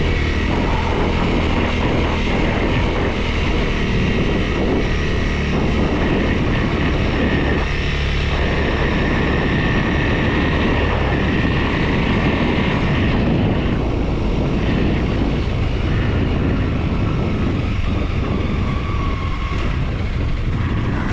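Loud, steady wind rushing over the microphone of a moving motorcycle, with the motorcycle's engine running underneath.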